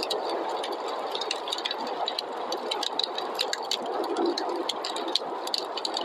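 Wood fire in a fireplace crackling, with many small sharp pops at irregular intervals over a steady rushing noise of snowstorm wind.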